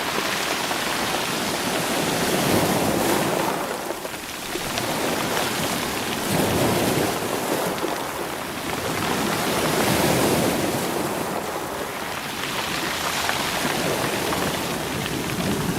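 Sea waves washing in over rocks and loose stones, rolling them, in repeated surges that swell and draw back every three to four seconds.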